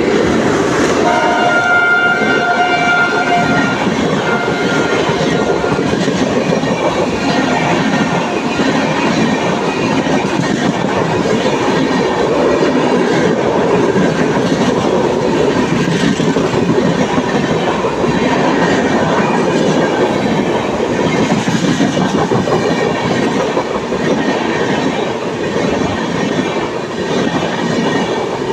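Ajmer–Sealdah Express train running on the rails, wheels clattering over the rail joints in a loud, steady rush. A horn tone sounds for a few seconds near the start.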